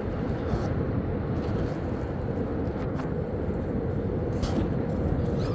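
Steady low rumbling noise of a running vehicle, even throughout, with a few faint ticks.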